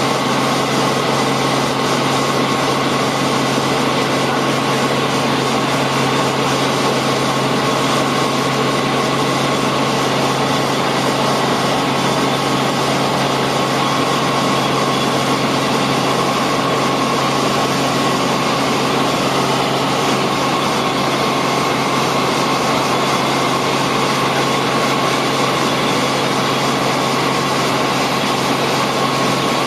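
Helicopter in flight: steady engine and rotor drone with a constant whine above it, unchanging throughout.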